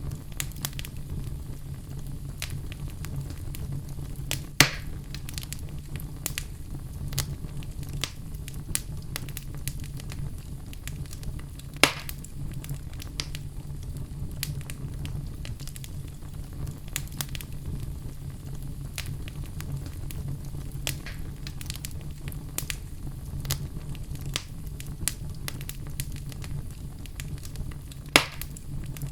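Wood fire burning in a fireplace: logs crackling continuously with many small snaps over a low steady rumble, and three louder pops spread through.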